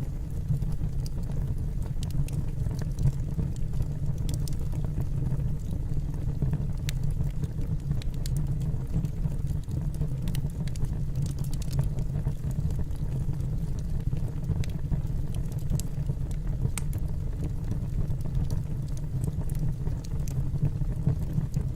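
Wood logs burning in a fireplace: a steady low rumble of the flames with scattered sharp crackles and pops from the burning wood.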